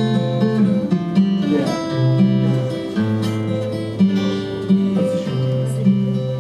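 Acoustic guitar playing an instrumental intro, steady strummed chords with a bass note changing about once a second.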